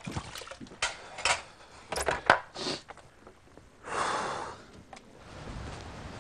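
Scattered knocks and clatters in a small room, the loudest about two seconds in, then a short rushing hiss about four seconds in.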